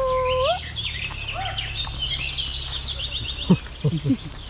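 Several wild birds chirping and calling, opening with a held whistled note and ending in a fast, high trill, over a steady low rumble.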